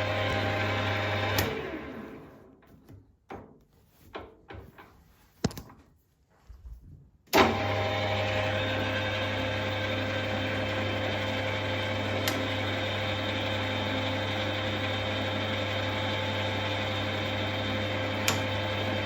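Emco Maximat Super 11 geared-head lathe running with a steady motor hum. About a second and a half in it is switched off with a click and winds down to near quiet, with a few scattered clicks. Just past seven seconds it starts again with a loud click and runs steadily.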